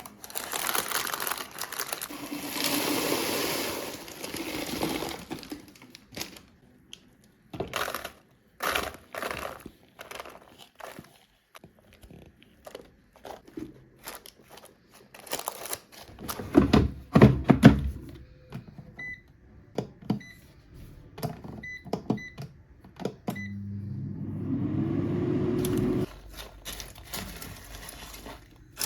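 Household handling sounds: knocks, thunks and rustling, then a run of short electronic beeps. An appliance motor hum follows, rising briefly in pitch, then holding, then cutting off suddenly.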